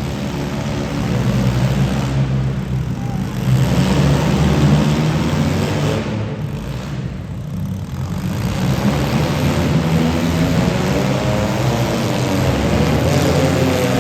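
Demolition derby car engines running loud, their pitch rising and falling as they rev.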